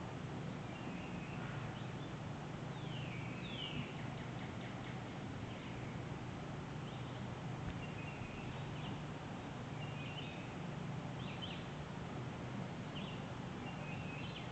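Small birds chirping intermittently, short high notes and quick falling whistles every second or two, over a steady low hum.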